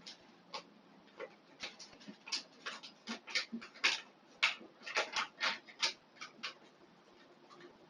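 Irregular short scrapes and clicks of a small plastic trimmer's casing and parts being handled and worked on, thickest in the middle few seconds.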